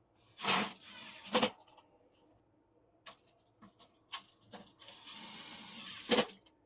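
Power drill driving screws in two short runs, one about a second long near the start and one a little over a second near the end, each ending in a sharp knock. Clicks and taps of parts and tools being handled fall between.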